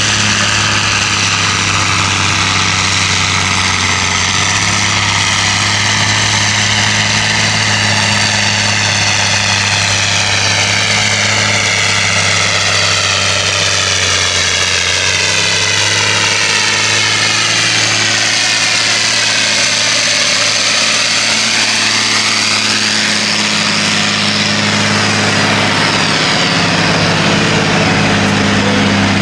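Tractor engine running loud and steady at an unchanging pitch, with a slowly sweeping, phasing hiss on top as the sound shifts relative to the listener.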